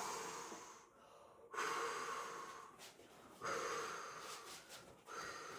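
A person blowing hard, four long breathy blows about a second and a half apart, each trailing off: the storyteller huffing and puffing as the wolf blowing the house down.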